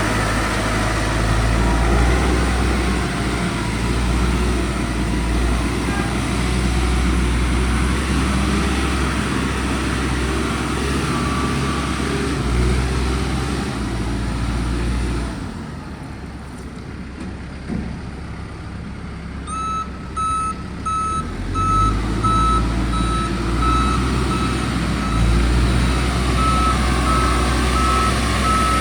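2010 Caterpillar TL1055 telehandler's diesel engine running with a steady low rumble that drops off for a few seconds past the middle. About two-thirds in, its back-up alarm starts a steady beep, roughly two beeps a second, as the engine picks up again and the machine reverses.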